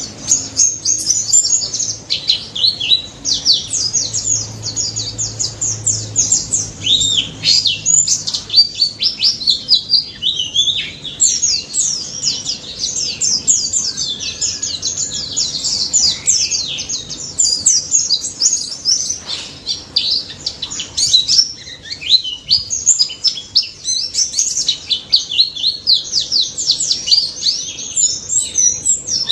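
A white-eye (pleci) singing continuously in a fast, dense stream of high, sharp, sweeping chirps and twitters, with hardly a pause.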